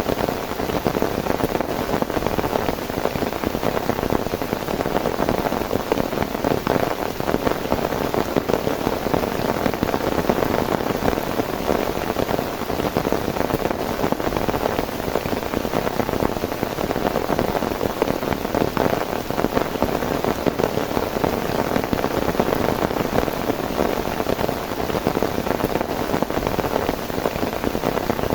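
Heavy rain falling steadily, a dense patter of drops hitting a surface with no let-up.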